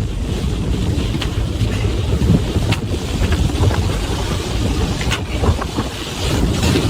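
Strong wind buffeting the microphone: a steady low rumble with a couple of sharp clicks.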